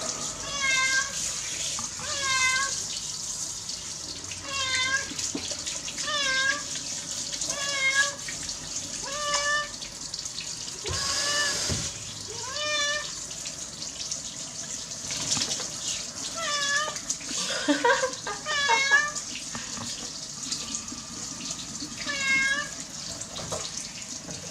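Sphynx cat meowing over and over while being bathed, about one meow every second and a half, with several close together a little past the middle. Running water hisses steadily underneath.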